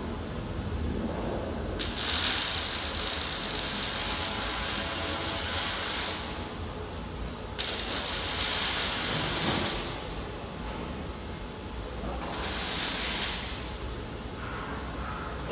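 Three bursts of loud hissing, each starting and stopping abruptly, the first about four seconds long and the last about a second, over a steady mechanical clatter in a workshop.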